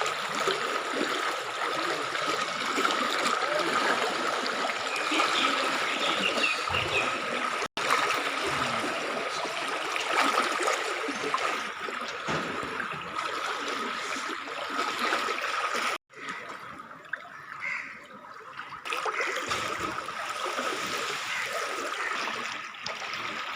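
Floodwater running and splashing, a steady wash of moving water, broken by two sudden brief dropouts about eight and sixteen seconds in.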